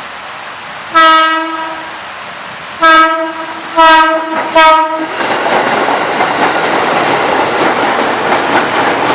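KRL commuter electric train sounding its horn four times, a long blast and then three shorter ones, then passing close by with a loud, steady rumble of wheels on the track, over the hiss of heavy rain.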